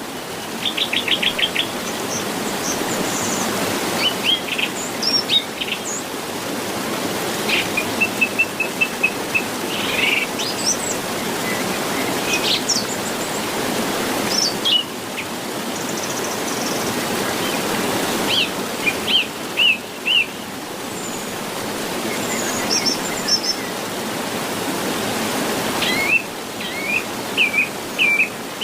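Several songbirds chirping and singing, with a quick run of repeated notes near the start and short whistled phrases throughout, over a steady rushing background noise.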